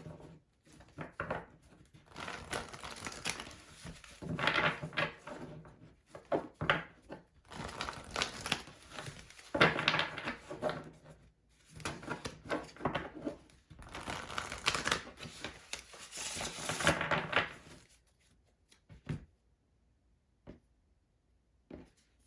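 A deck of tarot cards being shuffled by hand: repeated bursts of papery rustling and flicking, stopping near the end.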